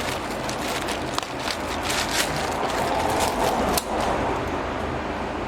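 Rustling and clicking of packaging and parts being handled as a new strut mount and its hardware are unpacked, with a denser rustle about three seconds in and a sharp click just before four seconds. A steady low hum runs underneath.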